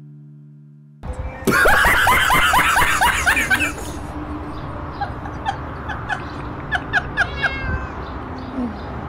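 Domestic cat calling: a loud run of rapid, chattering meows, then a few short chirping calls spaced out.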